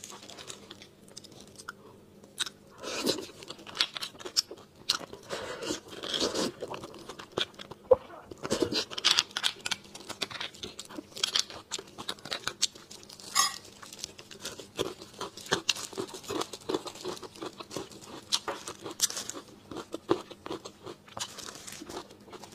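A person chewing and biting crunchy toasted bread close to a lapel microphone: a steady run of wet crunches and crackles with louder bites every second or so.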